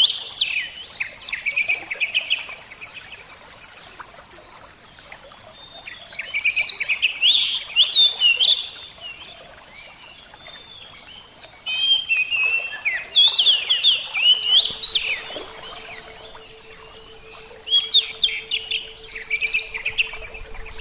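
Oriental magpie-robin (kacer) singing in four bursts of quick, varied whistled phrases, separated by pauses filled with a soft steady rush of water. A faint low steady hum comes in past the middle.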